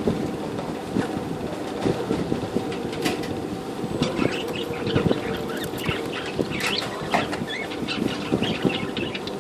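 English budgerigars chirping and chattering in short high calls, which grow busier about four seconds in, over a steady low rumble and clatter.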